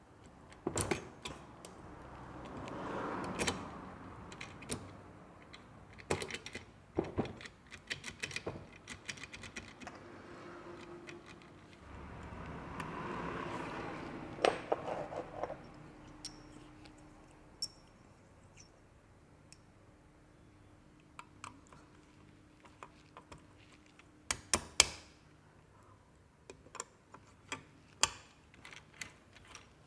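Small metal parts of a motorcycle gearbox clinking and knocking as the gear shafts are handled and set into the engine crankcase, in scattered irregular clicks with a couple of longer scraping passages.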